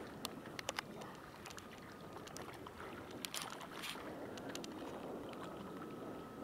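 Wind and lake water on the microphone, with a few sharp clicks scattered through and a faint thin whine from a radio-controlled model craft out on the water.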